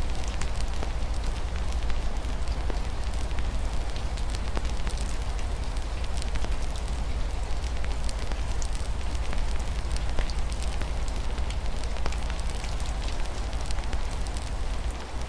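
Fireplace wood fire crackling with frequent small, irregular pops over a steady hiss of rain against a window, with a steady low rumble underneath.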